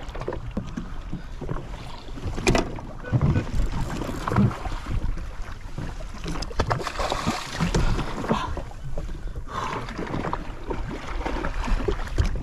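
Wind buffeting the microphone and water sloshing and splashing around a drifting jet ski, with scattered knocks and splashes as a king mackerel is fought at the side.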